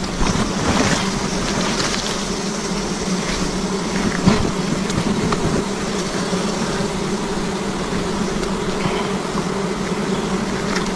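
A swarm of honey bees buzzing steadily in a dense drone around their disturbed wild comb. A single sharp knock about four seconds in.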